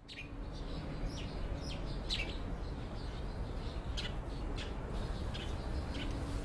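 Small birds chirping: a scattering of short, high calls every half second or so, over a steady low outdoor rumble.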